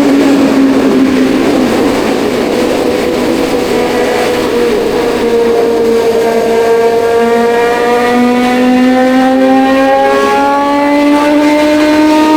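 Kawasaki Ninja 1100SX inline-four engine pulling under way, its pitch holding fairly steady and then rising gradually through the second half as the bike accelerates.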